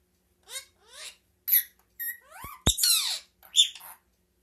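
A pet bird giving a run of short, squeaky, rising calls and high chirps, with a sharp click about two and a half seconds in.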